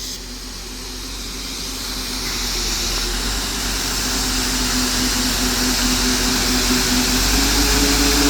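Large diesel engine of harvest machinery running steadily and growing gradually louder, its pitch stepping up slightly near the end.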